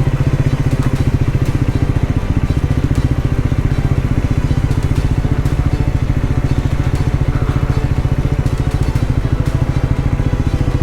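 Triumph Scrambler 400X's single-cylinder engine running at steady low revs, its firing pulses even and unbroken.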